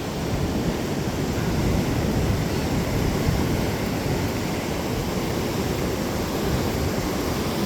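Steady noise of ocean surf mixed with wind buffeting the microphone.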